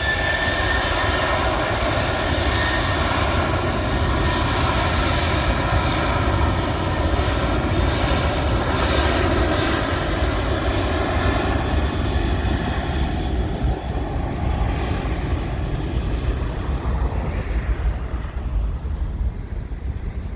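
Boeing 737-800's twin CFM56-7B turbofan jet engines at takeoff thrust: a loud, dense engine noise with a high fan whine, fading over the last few seconds.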